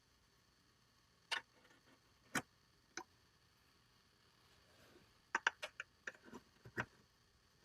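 Sharp metal clicks of clips being handled and pushed into holes in the truck's cab floor: three single clicks spread over the first three seconds, then a quick run of clicks about five to seven seconds in.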